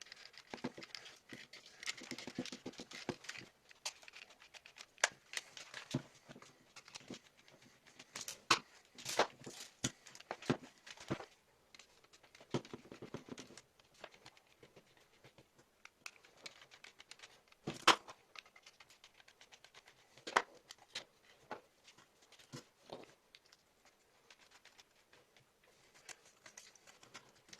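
Plastic parts of SteelSeries Siberia V2 headphones being unscrewed and handled during disassembly: irregular small clicks, taps and rustling, with a sharper click now and then.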